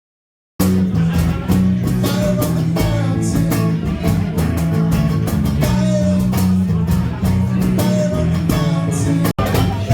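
Rock band playing: electric guitar, bass and drums with singing, starting abruptly about half a second in, with a momentary cut near the end.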